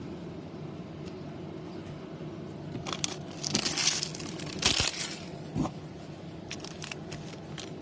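Trading card pack wrappers and cards being handled: crinkling and rustling of the foil wrapper from about three to five seconds in, with two light knocks.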